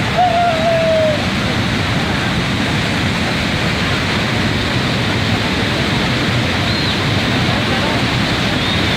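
Steady, loud rushing of floodwater, with a brief wavering high tone near the start.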